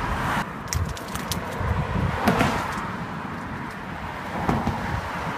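Road traffic on the Tay Road Bridge: a steady low rumble of passing cars, with a few sharp clicks in the first second or so.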